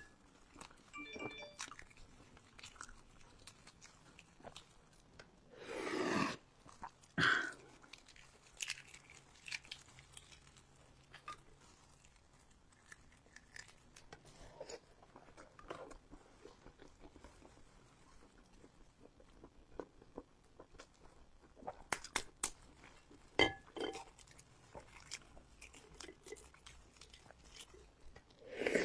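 A person chewing and biting food close to the microphone, with scattered soft crunches and small clicks. There are two louder eating sounds about six and seven seconds in.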